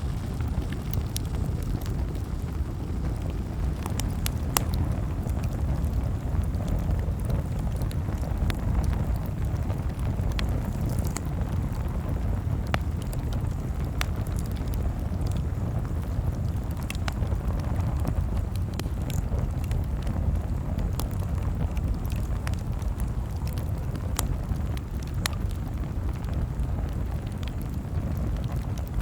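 Campfire burning: irregular sharp crackles and pops of the burning wood, a few every couple of seconds, over a steady low rumble.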